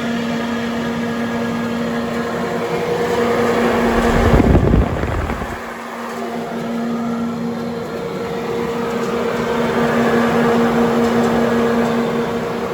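Lanco 2 HP three-phase PVC exhaust blower running: a steady hum with rushing air. A louder low rumble swells about four seconds in and fades after about a second and a half.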